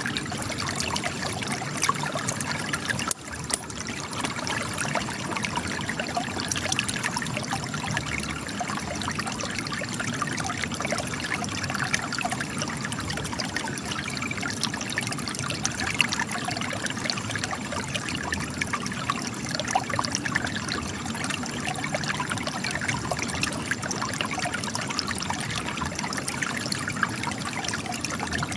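Spring water spilling from cracks in rock, a steady trickle and splash with many small droplet splashes, briefly dipping in level about three seconds in.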